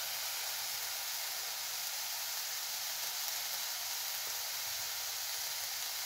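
Banana flower stir-fry (vazhakoombu thoran) sizzling in hot oil in the pan: a steady, even hiss.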